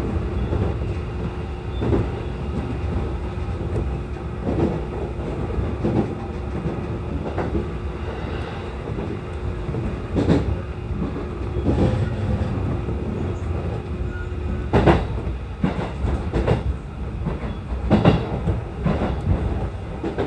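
JR East E233-0 series electric train running, a steady rumble broken by sharp clacks of the wheels over rail joints every one to three seconds.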